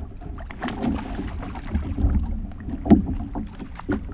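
A hooked snook splashing at the surface beside a kayak as it is fought to hand, with irregular splashes and a few sharp knocks, the loudest about three seconds in. Wind rumbles steadily on the microphone underneath.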